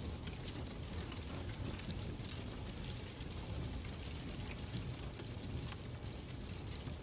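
Fireplace crackling: a steady rumble and hiss of burning logs with scattered small pops and snaps.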